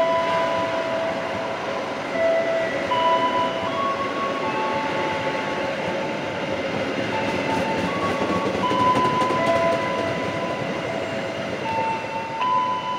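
Passenger train running along the station platform, a steady noise of the moving carriages with a slow melody of held notes playing over it.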